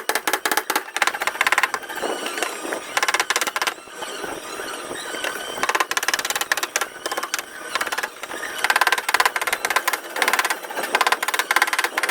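Paintless dent repair tools working a car's sheet-metal panel: runs of rapid, sharp metallic taps and squeals, coming in clusters with short pauses between them.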